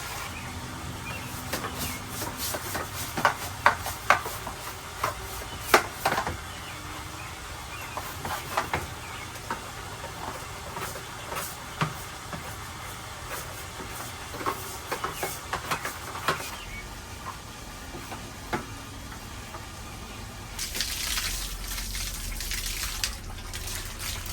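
Scrubbing and scraping noise from cleaning outdoor porch chairs, with scattered light knocks and clatters. A louder hissing stretch comes about twenty seconds in.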